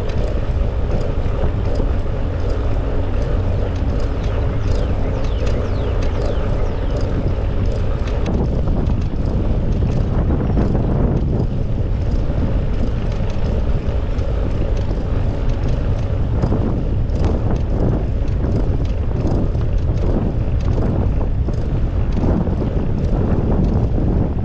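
Wind rushing over the microphone of a camera on a moving bicycle, a loud steady rumble, with the bicycle's running noise on the path beneath it.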